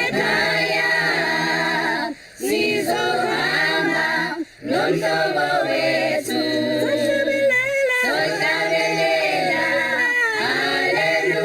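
Unaccompanied choir singing, several voices in harmony, with brief breaks about two seconds and four and a half seconds in.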